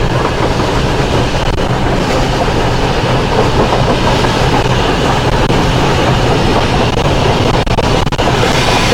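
Railroad cars of the train led by Union Pacific Big Boy 4014 rolling past in a steady rumble, with wheels clacking over rail joints.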